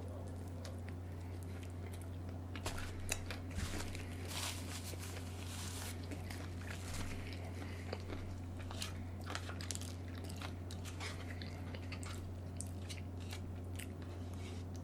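A person biting and chewing food close to the microphone, with crunchy bites and wet mouth clicks, loudest a few seconds in. A steady low hum runs underneath.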